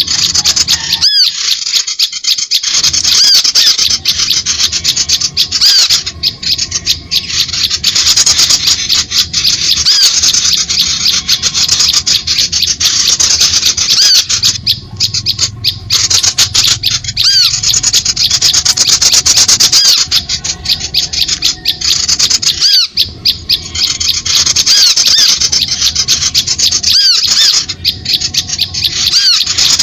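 Bird-luring call recording: a loud, dense chatter of rapid, high, squeaky chirps from small birds, with short breaks every few seconds as the recording repeats. It is meant to draw small birds in.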